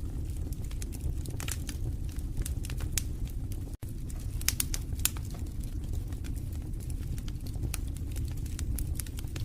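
Wood fire crackling in a fireplace: frequent irregular sharp pops and snaps over a steady low rumble of the flames. The sound cuts out for an instant about four seconds in.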